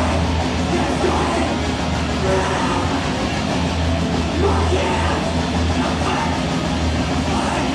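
Loud live heavy rock band playing, with a heavy bass line and shouted vocals over the band.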